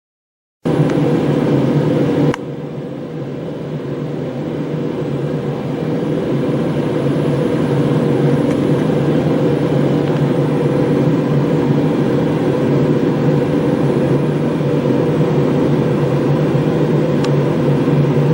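CNC compression spring coiling machine running, a steady mechanical hum with several held tones. It drops in level suddenly about two seconds in, then slowly builds back up.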